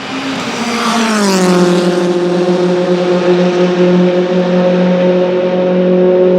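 Race car engine at high revs. Its pitch drops about a second in, then holds as a steady, loud drone.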